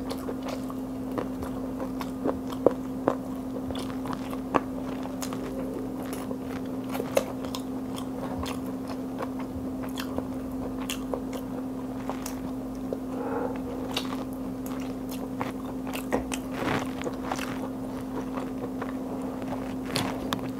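A person chewing and biting into fried chicken close to the microphone: wet mouth clicks and smacks with a few sharp crunches. A steady low hum runs underneath.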